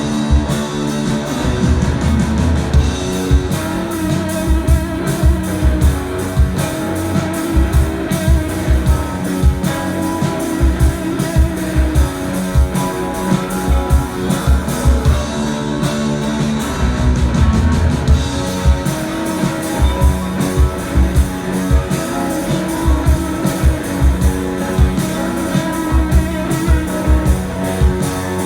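Live rock band playing: electric guitars over bass and a steady drumbeat, the whole band sounding throughout.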